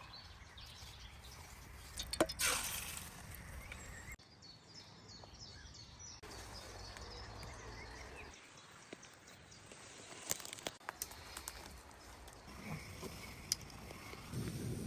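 Forest ambience pieced together from several short cuts: a low outdoor hum with faint high bird chirps, a louder rustle about two seconds in, and scattered sharp clicks or snaps later on.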